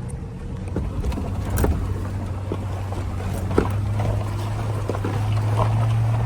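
A four-wheel-drive vehicle's engine climbing a steep road, a steady low drone that grows louder toward the end, with scattered knocks and rattles.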